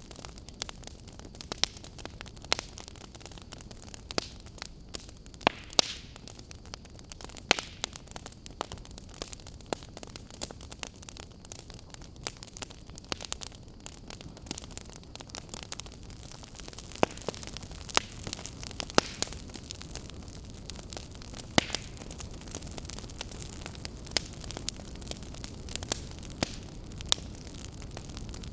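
Wood fire crackling: a steady low hiss of burning with frequent irregular sharp pops and snaps, a few louder ones scattered through.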